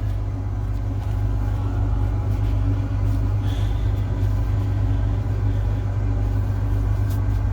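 Combine harvester's diesel engine running steadily, a deep even hum with a constant low tone and no change in speed.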